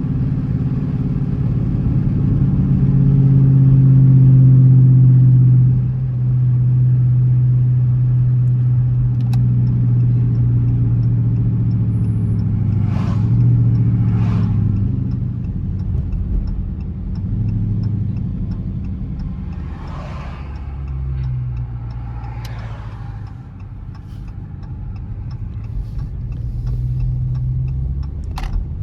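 Dodge Charger R/T's V8 engine pulling hard, its note climbing and loudest about four to five seconds in, then dropping suddenly as the throttle comes off; it carries on at a lower level, rising and falling. A few short rushing noises come through in the middle stretch and a sharp click near the end.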